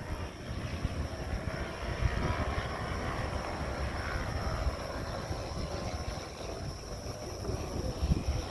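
Racing motorcycle engines from the superbike field out on the circuit, a distant drone that swells about two seconds in and eases after about five, over a steady low rumble.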